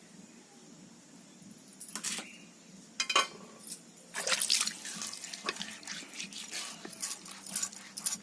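Water splashing and dripping in irregular bursts, starting about two seconds in and growing busier from about four seconds, as something is handled in water.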